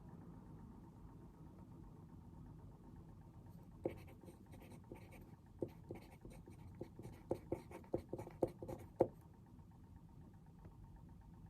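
Pen writing on paper: a run of short scratches and taps through the middle few seconds, over a faint steady background hiss.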